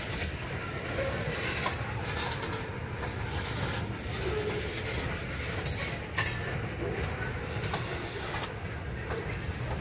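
Loaded ethanol tank cars of a freight train rolling past: a steady rumble of steel wheels on the rails, with a few sharp clicks as wheels cross rail joints, the loudest about six seconds in.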